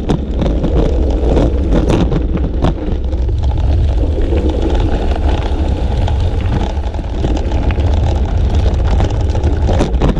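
Wind buffeting the microphone of an action camera riding along on a bicycle: a loud, steady low rumble with road noise, broken by a few scattered clicks.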